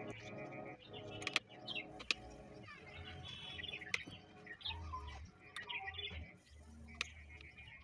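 Birds chirping in short, quick calls, over faint soft music that fades in the first few seconds, with a few sharp clicks.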